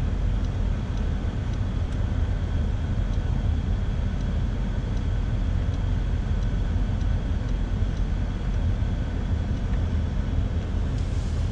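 Mercedes-AMG GT 63 S 4-door's twin-turbo V8 idling steadily, heard from inside the cabin.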